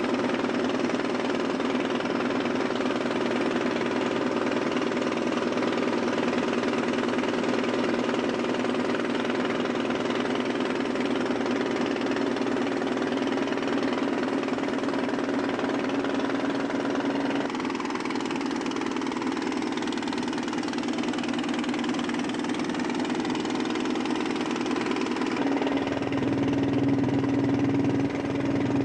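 Boat taxi's engine running steadily, its note shifting about two-thirds of the way through and again near the end, with a heavier low rumble at the close.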